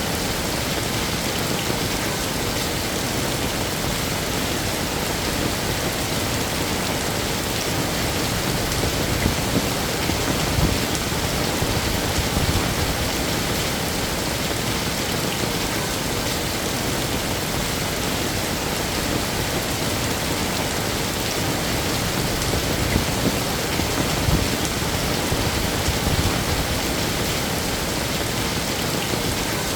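Heavy rain falling steadily, a dense even hiss of drops hitting surfaces, with a few slightly louder spatters here and there.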